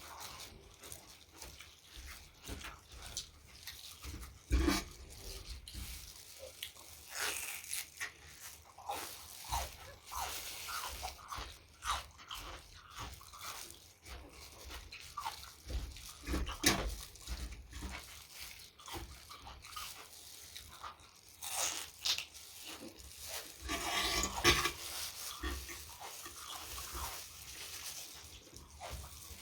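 Close-miked eating of spicy Thai salad and octopus: irregular chewing and crunching with wet mouth clicks, and a few louder crunches along the way.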